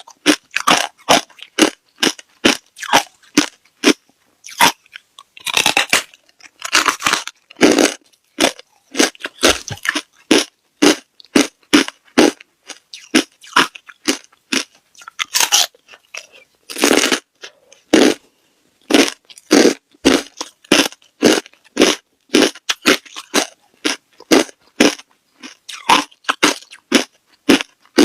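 Ice being bitten and chewed close to the microphone: sharp crunches about twice a second, with a few longer stretches of grinding crunch.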